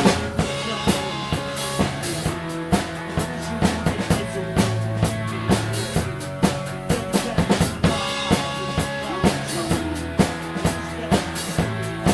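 Instrumental band music without vocals: a drum kit keeping a steady beat with bass drum and snare hits over bass and held chords.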